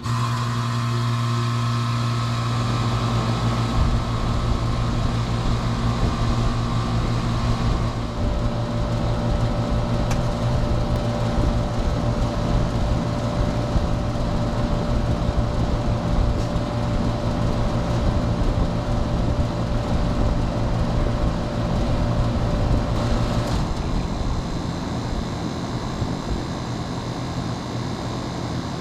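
Outdoor central air conditioner condensing units starting up: a sudden loud start with a strong low compressor hum, then steady running with the condenser fan, the tones shifting a few times as the units settle.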